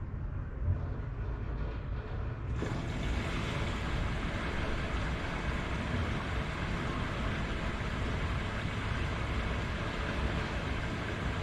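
Washing machine running with a steady, even hum. About two and a half seconds in, the sound abruptly turns brighter and fuller with more hiss, and it stays that way.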